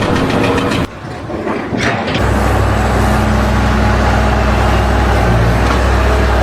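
A large engine running with a steady low drone, starting about two seconds in after a brief quieter gap; before the gap there is a different dense mechanical noise.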